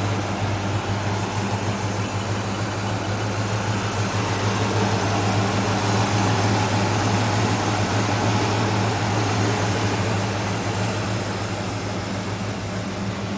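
A 1973 Chevrolet C20's 454 cubic-inch big-block V8 running steadily with an even low note, rising a little in loudness through the middle and easing back near the end.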